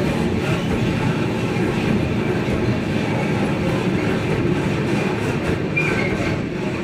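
Freight train of high-sided open wagons rolling past close by: a loud, steady rumble of steel wheels on the rails, with a short high-pitched squeal near the end.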